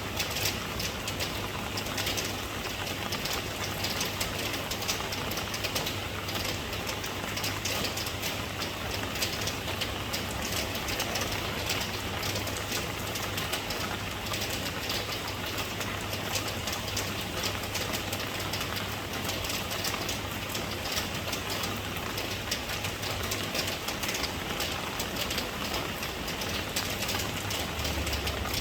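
Steady rain falling, a dense even hiss of many drops, with a steady low rumble underneath.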